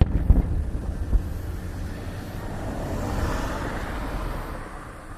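Fireworks shells bursting overhead: a loud boom right at the start and another about a second later, followed by a rush of noise that swells and fades over the next few seconds.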